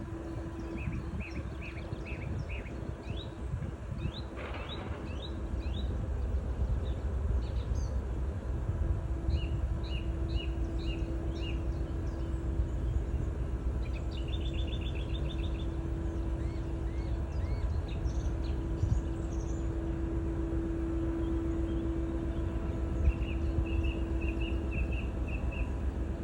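Steady low drone of a river boat's engine, growing louder a few seconds in, with small birds chirping in short repeated runs over it.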